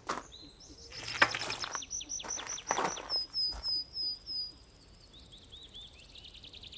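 Songbird singing: a fast run of repeated high chirps about two seconds in, then a second series of shorter notes near the end, with a few brief rustling noises in the first three seconds.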